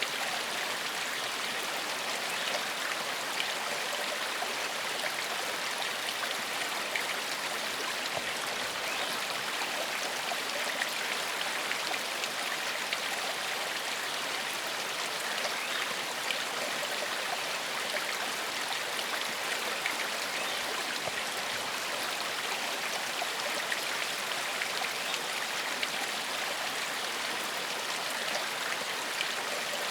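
Small forest stream flowing, a steady rush of water with fine splashing and burbling that does not change.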